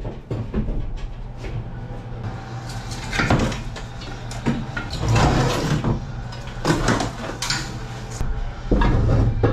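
A series of clunks, knocks and scrapes as things are handled and moved, coming in several separate bursts, over a steady low hum.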